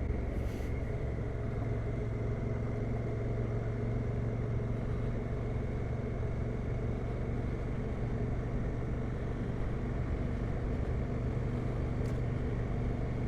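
Adventure motorcycle engine running at a steady pace while riding, with a constant hum and steady rushing noise and no change in speed.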